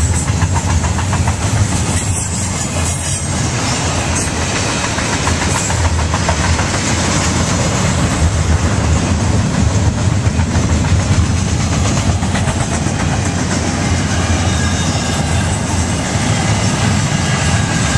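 Double-stack intermodal freight train's well cars rolling past: steel wheels clicking over the rail joints and the cars rattling in a loud, steady din.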